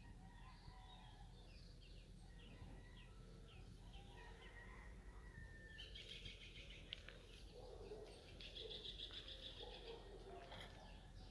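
Faint birds calling. A run of short chirps comes first, then two buzzy trills in the second half, over a low steady hum.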